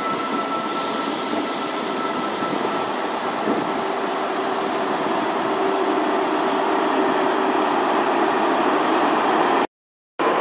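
Train passing on the line: a steady rail rumble with faint steady whines. The sound cuts out completely for about half a second near the end.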